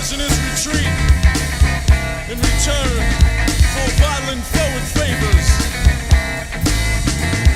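Rock music, an instrumental passage: drum kit hits on a steady beat over bass, with a lead part that keeps bending up and down in pitch.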